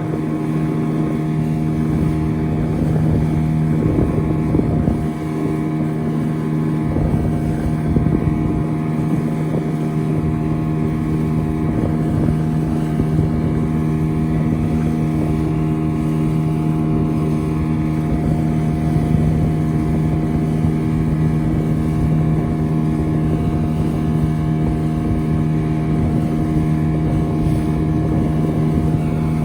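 Motorboat engine running at a steady pitch under way, with wind buffeting the microphone.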